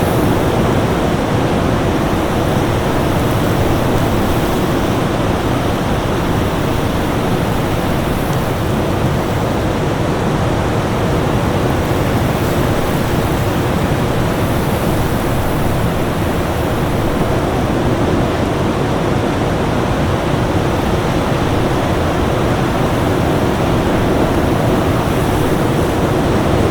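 Winter-storm ambience: a steady, dense rush of noise at an even level, with no separate gusts or events.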